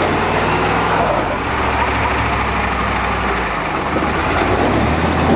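A motor vehicle engine running steadily at a low, even speed, with a constant rushing haze over it.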